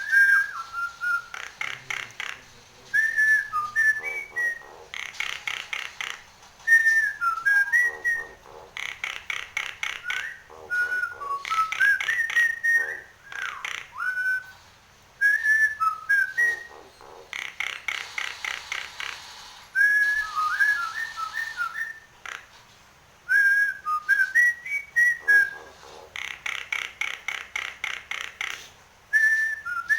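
Nias hill myna singing: short whistled notes that glide up and down, alternating with bursts of rapid rattling clicks a second or two long, repeated again and again.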